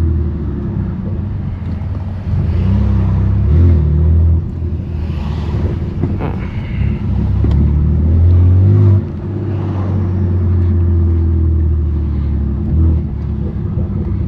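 Straight-piped BMW M3 Competition's twin-turbo inline-six (S55) running with a deep, steady exhaust drone while driving, getting louder about two seconds in and dropping back about nine seconds in.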